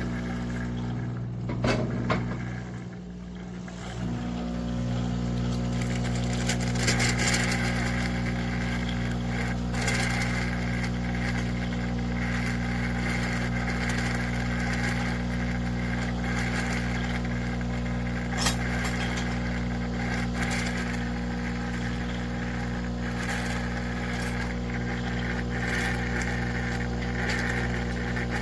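A steady mechanical hum made of several even low tones with a hiss above, dipping briefly a couple of seconds in and then running on unchanged.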